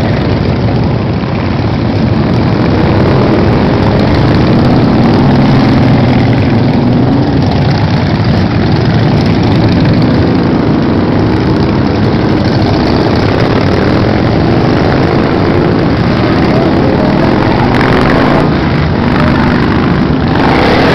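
Many motorcycle engines running together as a large group of bikes rides past: a loud, steady mix of overlapping engine notes, each rising and falling slightly.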